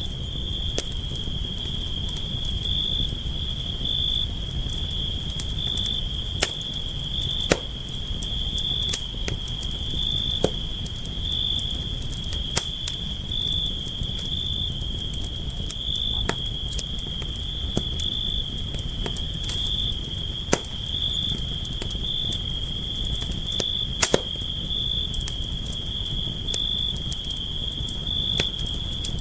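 Campfire burning with a low steady rumble and frequent sharp crackles and pops at irregular moments. A continuous high cricket trill runs steadily over it.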